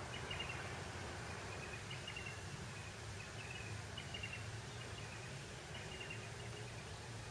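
A bird calling again and again, a short high chirping call about every two seconds, over a steady rushing noise.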